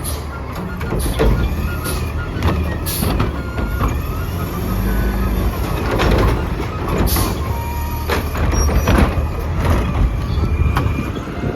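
Curotto-Can garbage truck running with a steady low engine rumble, with repeated clanks and knocks spread through.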